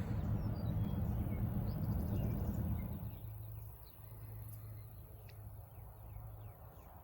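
Outdoor ambience: a steady low hum with a noisy haze that drops away about three seconds in, and faint bird chirps scattered through.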